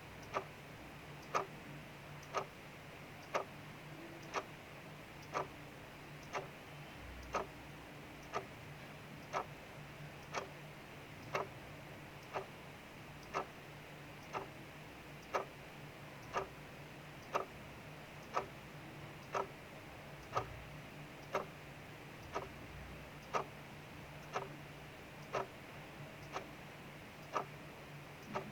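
Clock ticking about once a second, each tick a sharp, even click, over a steady soft hiss of rain.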